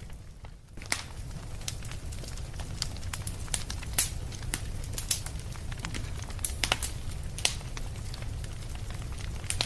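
Wood fire crackling, with irregular sharp pops and snaps over a steady low rumble. It drops briefly quieter in the first second before the crackling resumes.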